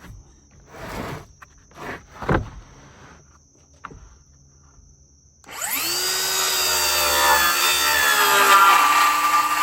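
A few wooden knocks as boards are handled, then about five and a half seconds in a cordless circular saw spins up with a rising whine and runs steadily, cutting through the lumber.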